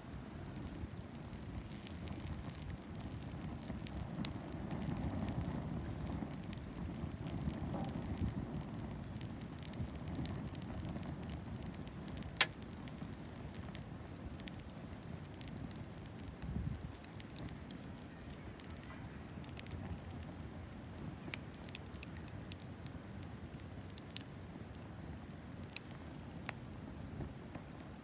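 Wood bonfire crackling, with scattered sharp pops and a louder snap about twelve seconds in, over a low steady rumble.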